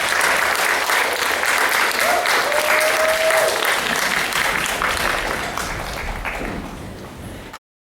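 Audience applauding, with one voice giving a short held cheer a couple of seconds in. The clapping dies away over the last few seconds and cuts off suddenly.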